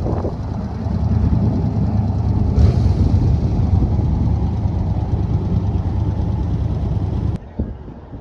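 Motorcycle engine running steadily with a low rumble and some wind noise on the microphone, cutting off abruptly about seven seconds in.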